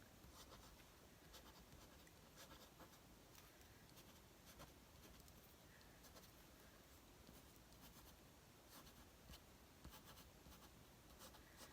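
Near silence with faint, scattered ticks and light scratching of a tool dabbing gold glitter onto paper.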